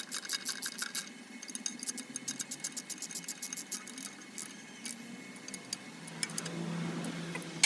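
Quick runs of light ticking clicks, many a second, in bursts with short pauses. A low hum comes in near the end.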